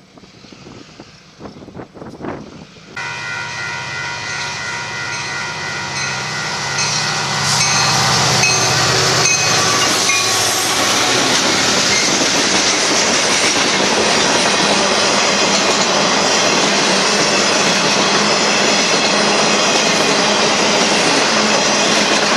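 Union Pacific freight train passing close by: the locomotives come up about three seconds in with a steady engine drone and tones, then a long string of empty intermodal cars rolls past with a steady loud rumble and clatter of wheels on rail.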